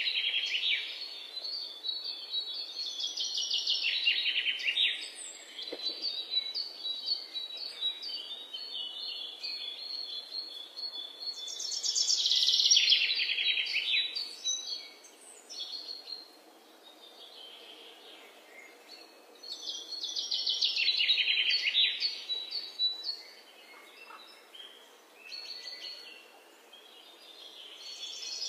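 Birdsong: a songbird repeating phrases of rapid trills, some falling in pitch, every few seconds, over a faint steady hiss.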